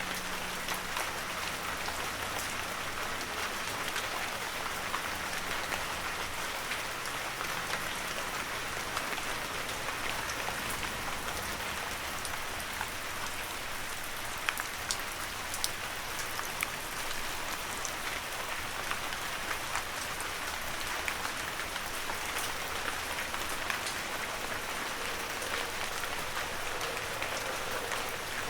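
Heavy rain falling steadily, a dense hiss with many individual drops ticking.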